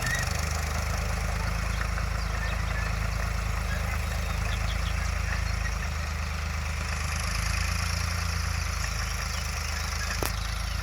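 Lamborghini C553 crawler tractor's diesel engine idling steadily, with one sharp click near the end.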